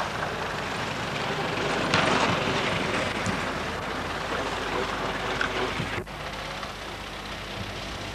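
Veteran Model T Fords' four-cylinder side-valve engines running as the cars drive past one after another. There is a brief break in the sound about six seconds in.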